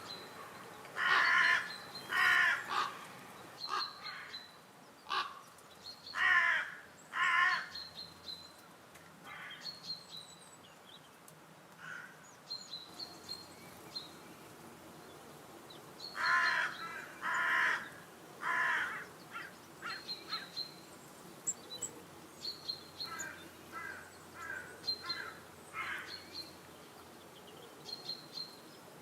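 Birds calling: loud, harsh calls come in groups of two or three, about a second apart, with short high chirps from smaller birds between them.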